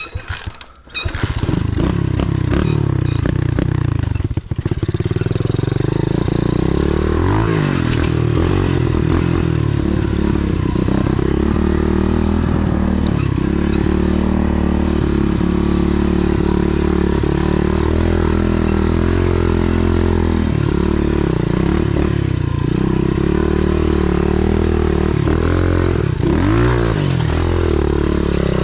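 A 125cc pit bike engine starts up about a second in and dips briefly a few seconds later. It then runs steadily loud, its revs rising and falling several times as the bike is ridden.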